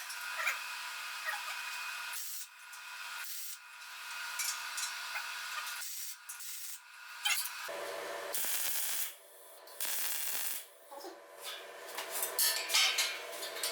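Rubbing, rasping noise of hand work on a workpiece, in stretches that stop and change abruptly.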